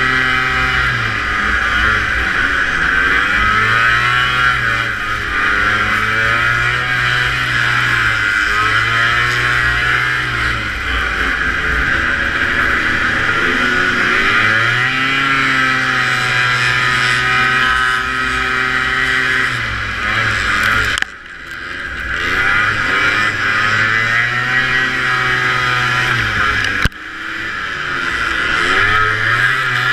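Two-stroke vintage racing snowmobile engine running hard, its pitch rising and falling again and again as the throttle is worked through the course. The sound drops out suddenly twice, briefly, near the end.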